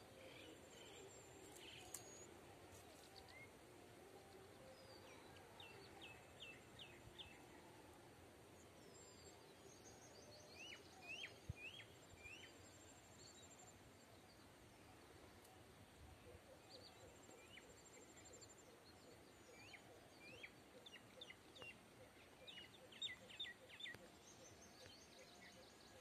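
Faint outdoor morning birdsong: small birds give quick runs of short, sharp chirps in several groups, with a low background hum of distant sounds.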